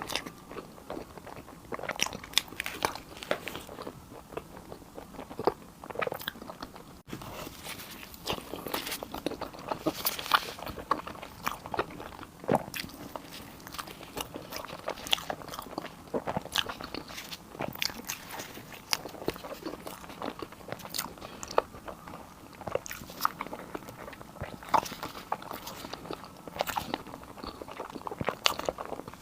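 Close-miked eating: crunchy bites and chewing, a steady run of irregular crisp clicks and crackles with a brief break about seven seconds in.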